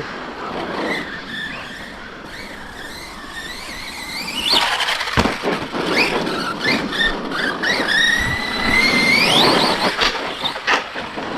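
Electric RC stunt trucks' motors whining as they rev up and down, the pitch sweeping up sharply about halfway through and rising again near the end, with a few sharp knocks of the trucks landing or hitting the ground.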